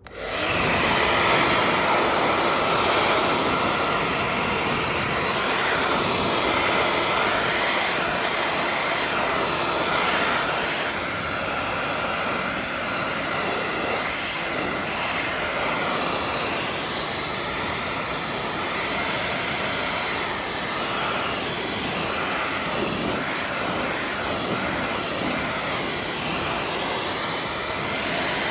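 Hair dryer switched on suddenly and blowing steadily, its airflow wavering slightly as it is aimed about, used to heat polyresin statues so they can be adjusted.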